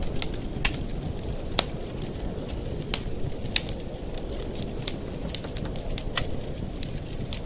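Campfire burning: a steady low rush of flame with irregular sharp crackles and pops from the burning wood, a few of them louder.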